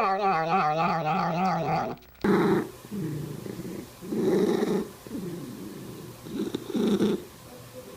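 A cat's drawn-out, wavering yowl that cuts off about two seconds in, followed by a cat purring in pulses about once a second.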